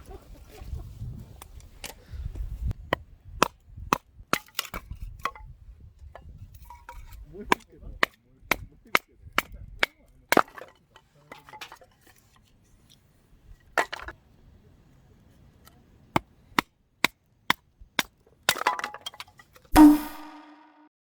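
Wood fire crackling with irregular sharp pops, then a single loud metallic clank that rings briefly near the end.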